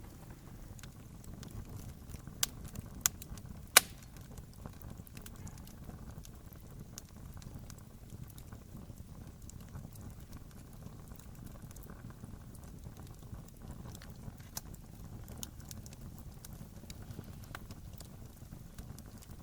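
Wood campfire burning: a steady low rumble of flame with scattered crackling throughout, and three sharp pops close together a couple of seconds in, the last and loudest near four seconds.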